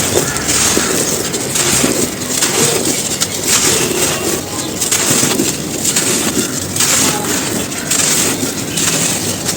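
Dry, gritty cones being crumbled, with continuous crunching and crackling in repeated squeezes, a little under two a second.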